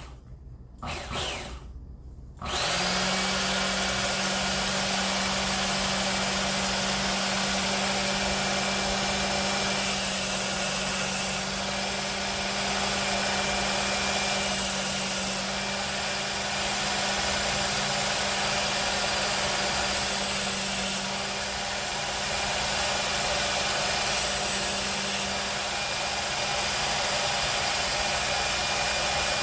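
Work Sharp Ken Onion Elite electric belt sharpener starting up about two and a half seconds in and then running steadily with a hum. About four times, a knife blade drawn across the moving belt adds a brief hiss.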